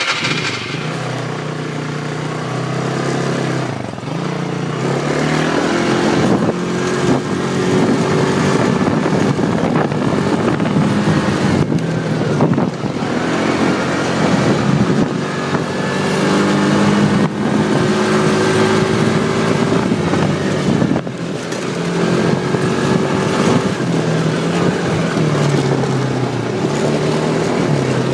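Four-wheeler (ATV) engine running while being ridden, its pitch rising and falling repeatedly with the throttle.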